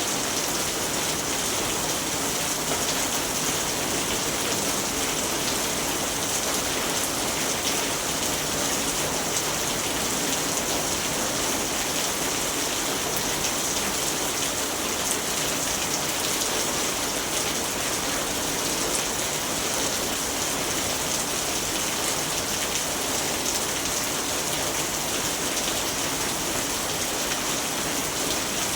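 Steady rain falling, an even hiss of many drops on surfaces with fine, dense pattering and no thunder.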